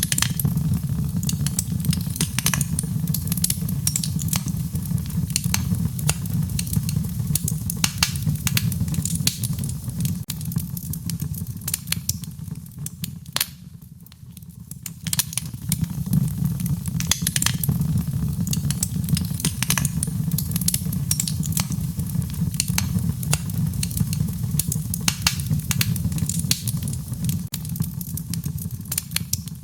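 Wood fire crackling, with frequent sharp pops and snaps over a steady low rumble. The rumble fades briefly about halfway through, then comes back.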